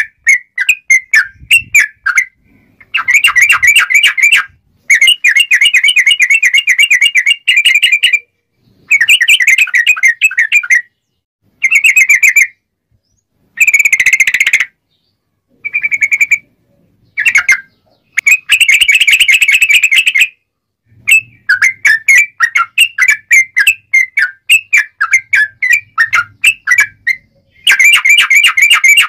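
Yellow-vented bulbul (trucuk) singing in long, rapid bubbling phrases of whistled notes, coming in bursts of one to two seconds with short pauses between them.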